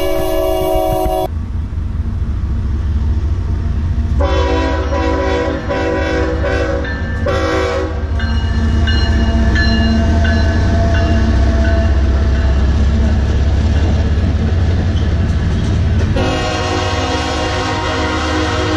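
A freight train's diesel locomotive, a Kansas City Southern de México unit, passes with a heavy low engine rumble, its air horn blowing repeatedly. The horn stops about a second in, sounds again about four seconds in with short breaks, gives a brief blast near eight seconds, and sounds again over the last few seconds as the container cars roll by.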